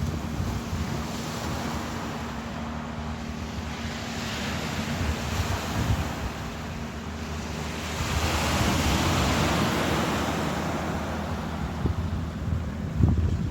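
Ocean waves surging and washing in, swelling twice with the louder surge about two-thirds of the way through, with wind buffeting the microphone and a low steady hum underneath.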